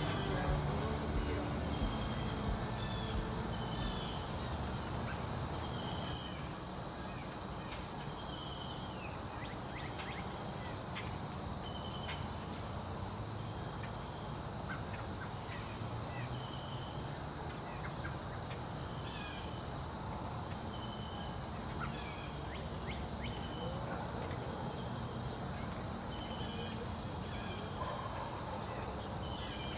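Steady, unbroken high-pitched insect chorus, with short bird chirps repeating every second or two over a low outdoor background rumble.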